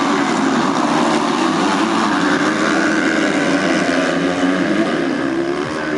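Several motocross bikes' engines revving hard together, the pitch rising and falling as the riders work the throttles around the track.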